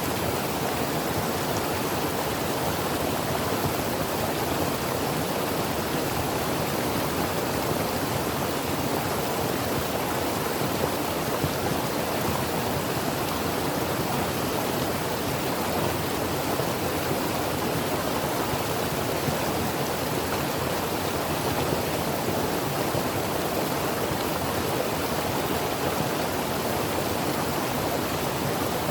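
Creek water flowing steadily, an even rushing splash with no breaks.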